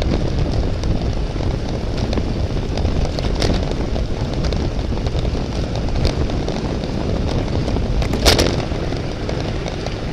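Steady wind rush buffeting the microphone, with scattered light clicks and one sharper clatter about eight seconds in.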